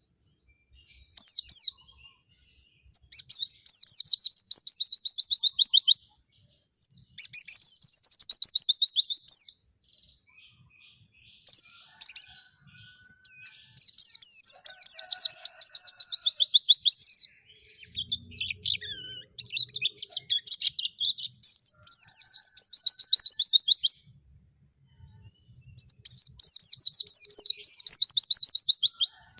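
White-eye (pleci) singing vigorously: about eight high-pitched phrases of fast, rapidly repeated notes, each lasting a second or a few seconds, with short pauses between.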